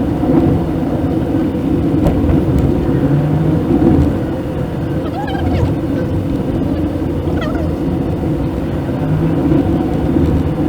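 Maruti Suzuki WagonR driving, its road and engine rumble picked up by a dashcam microphone inside the car. A few brief high chirps rise over it around the middle.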